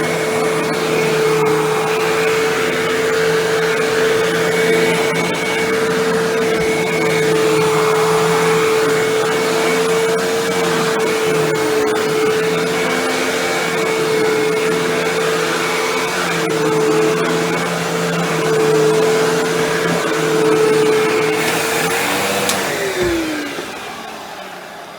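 Hoover Windtunnel Bagless upright vacuum cleaner running with a steady motor whine. It is switched off near the end, and its pitch falls as the motor winds down.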